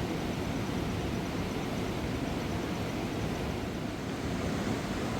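Steady rush of a fast-flowing mountain river, an unbroken roar of water with no separate splashes or knocks.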